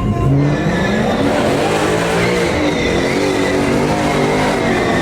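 Car engine revving up just after the start, then held at high revs, with a high continuous squeal from spinning tires.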